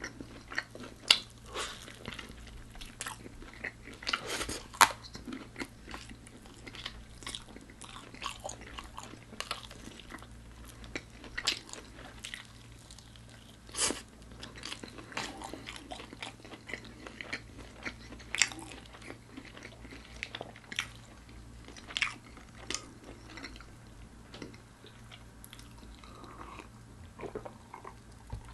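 Close-miked biting and chewing of crispy fried food. Sharp, crackling crunches come at irregular moments, loudest in the first few seconds and again about halfway through, with quieter wet chewing in between. The crunches thin out toward the end.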